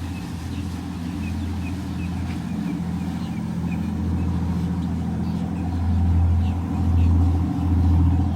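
A passing boat's engine exhaust: a deep, steady rumble that grows louder over the last few seconds, echoing around the inlet.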